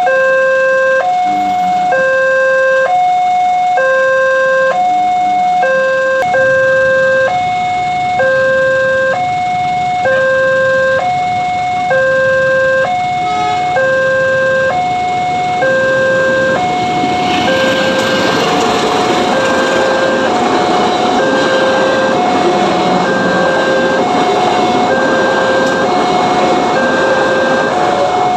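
Indonesian railway level-crossing warning alarm sounding a two-tone electronic chime, alternating a lower and a higher tone about once a second each. About seventeen seconds in, the noise of a train passing over the crossing rises beneath it and carries on to near the end.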